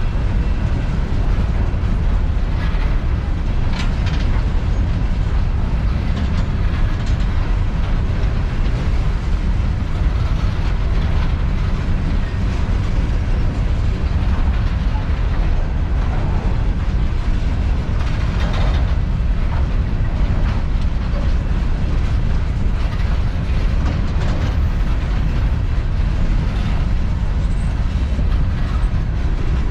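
Empty coal train's hopper cars rolling past, a steady low rumble with scattered clicks and clanks from wheels and couplers.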